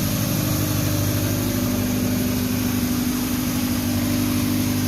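1985 Honda Prelude 2.0's engine idling steadily, just started after a couple of years of sitting.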